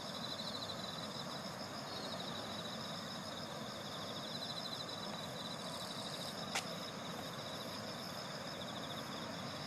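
Steady chorus of insects, a high, fast-pulsing trill with thinner steady buzzing above it. A single sharp click about six and a half seconds in.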